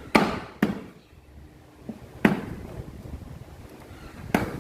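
A few sharp knocks and clinks of engine parts and hand tools being handled during a motorcycle engine rebuild: two in quick succession at the start, one about two seconds in and one near the end.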